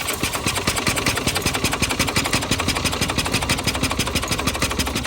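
Yamaha G9 golf cart gas engine cranking over on its starter, powered by a jumper cable touched straight to the starter, in a fast, even rhythm of strokes. It turns over without firing, since no fuel is reaching it yet, and the cranking stops about five seconds in.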